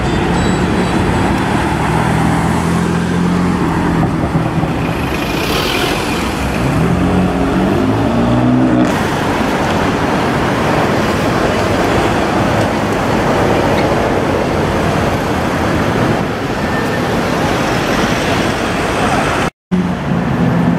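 Sports car engines in city traffic: one engine runs steadily, then revs up with rising pitch about seven seconds in. After a sudden cut near nine seconds, a steady wash of road traffic noise follows.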